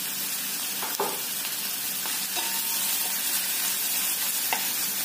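Chopped onion, peanuts and green chillies sizzling steadily in hot oil in a stainless steel kadhai while being sautéed. A wooden spatula stirs the mix, scraping against the pan a few times.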